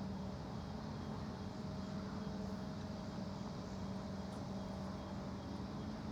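Steady machinery drone with a low hum and a fainter higher tone held throughout.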